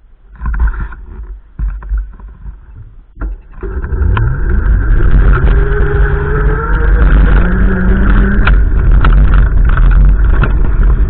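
Wind gusts buffeting the microphone in low rumbling bursts. About three and a half seconds in, a motor vehicle's engine joins and rises steadily in pitch as it accelerates, staying loud under the wind noise.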